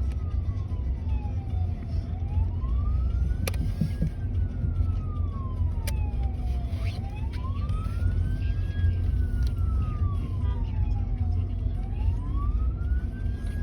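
A siren wailing slowly, its pitch rising and falling about every five seconds, heard from inside a moving car over the low rumble of the engine and road.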